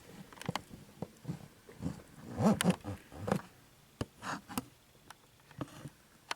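Scattered light clicks and taps from handling a container, with a few brief low murmur-like sounds, the strongest about two and a half seconds in.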